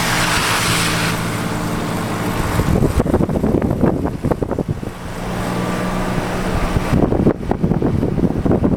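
A vehicle engine running steadily, broken twice by stretches of wind buffeting the microphone, a few seconds in and again near the end.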